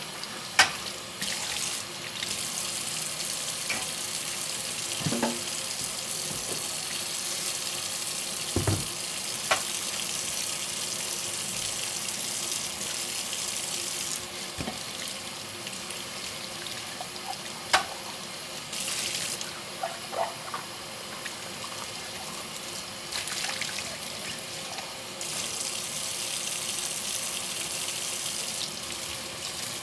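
Tap water running steadily into a kitchen sink during hand dishwashing, with a few sharp clinks and knocks of dishes being handled.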